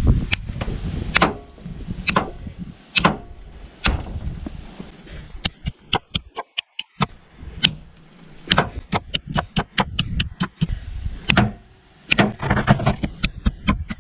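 Messerfieber Woodpecker knife with an N690 steel blade striking a hard object again and again: sharp clicking knocks at irregular spacing, some in quick runs of several a second.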